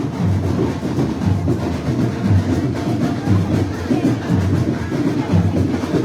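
Loud carnival parade music with drums keeping a steady, driving beat.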